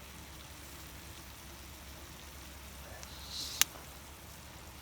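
Faint steady sizzle of food cooking on a hot iron griddle, with a brief rustle and one sharp click about three and a half seconds in.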